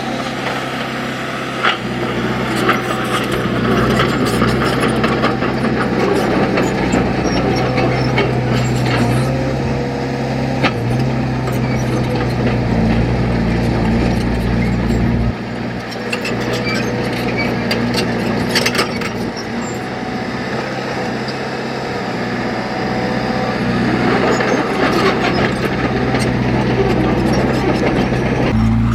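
Heavy diesel earthmoving machinery running under load, with scattered metallic clanks and knocks. The engine drone holds steady, then changes pitch and drops in loudness about halfway through before rising again.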